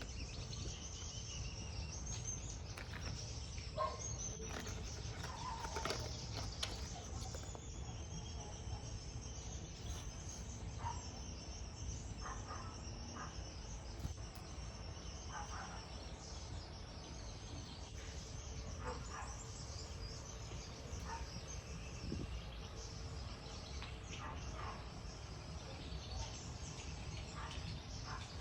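Outdoor background with scattered short bird chirps over a steady low rumble.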